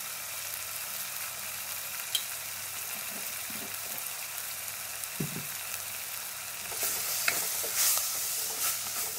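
Onion-tomato masala frying in oil in a clay pot, a steady sizzling hiss. About seven seconds in, a spatula starts stirring, scraping against the pot in quick repeated strokes.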